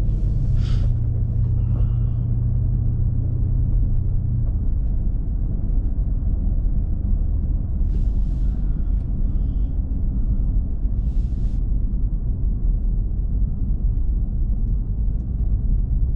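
BMW M5 Competition's 4.4-litre twin-turbo V8 running in low-speed city driving, with road rumble. A steady low engine drone for the first four seconds or so gives way to an even rumble, and three short hisses sound along the way.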